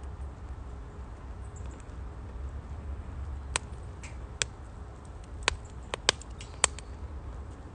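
Firewood burning in a UNIFLAME Nature Stove Large wood stove, crackling: about six sharp pops and snaps in the second half over a steady low rumble.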